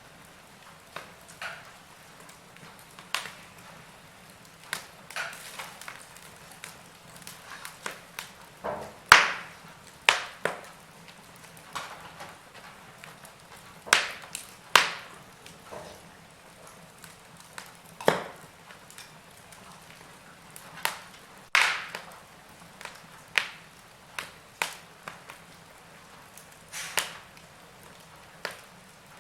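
Wood fire crackling in a fireplace: irregular sharp pops and snaps over a faint steady hiss, with a handful of louder snaps scattered through.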